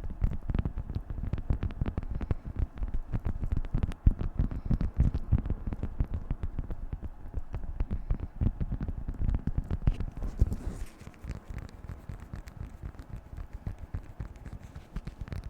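Beeswax food wrap being crinkled and handled close to the microphone: dense, fast crackling and tapping that grows softer after about eleven seconds.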